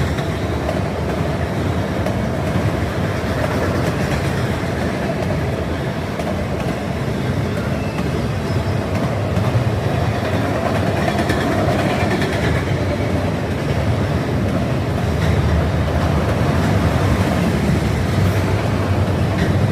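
Norfolk Southern freight train rolling past on the rails, a steady, unbroken rolling noise of its wheels and cars.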